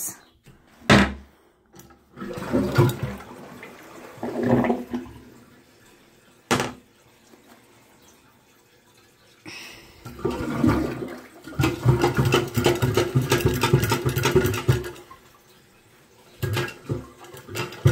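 A toilet flushing, a long rush of water lasting about five seconds, which here carries away a torn paper-towel costume. Before it come a few sharp knocks and short bursts of handling noise.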